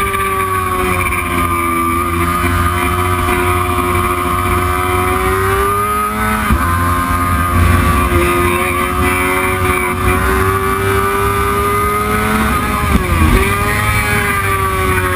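Racing motorcycle engine running hard at high revs. Its pitch climbs slowly, falls off sharply about six and a half seconds in, and dips briefly again around thirteen seconds before rising once more.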